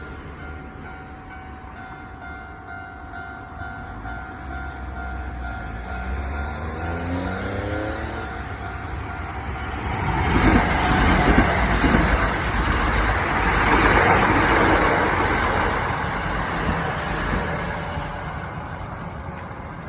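Japanese railway crossing bell ringing at about two strokes a second, then a Hankyu Kyoto Line electric train's motors whining up in pitch. The train passes loudly about ten seconds in, and its rumble fades toward the end.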